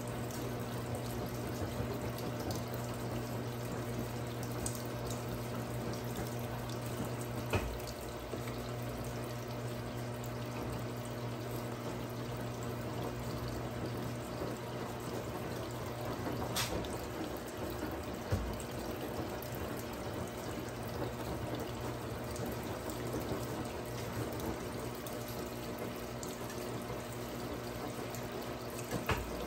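Brastemp 17 kg top-loading washing machine with water pouring and splashing into its tub, over a steady low hum that stops with a click about 17 seconds in; the water keeps running after it.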